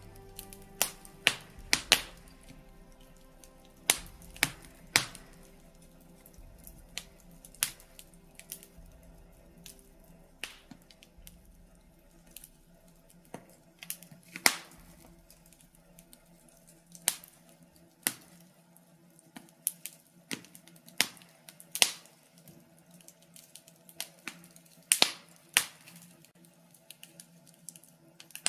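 Birch-wood fire crackling in a fireplace, with irregular sharp pops and snaps, sometimes several close together, over a faint steady background.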